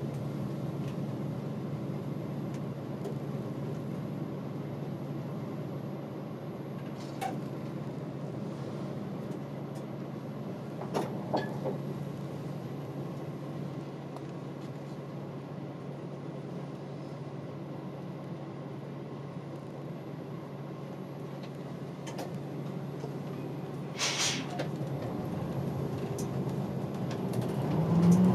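Interior sound of a route bus driving: the engine runs with a steady low hum, with a few brief clicks, and a short hiss about 24 seconds in. The engine gets louder near the end.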